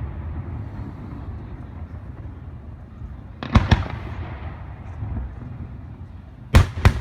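Fireworks going off: a steady low background of distant explosions, two sharp bangs close together about halfway through, and a quick cluster of bangs near the end.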